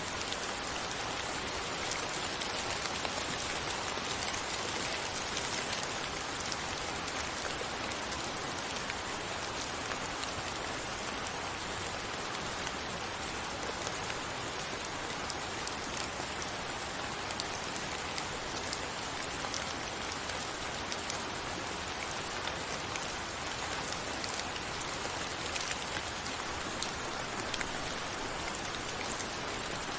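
Steady rain falling, an even hiss with many fine drop ticks hitting a surface.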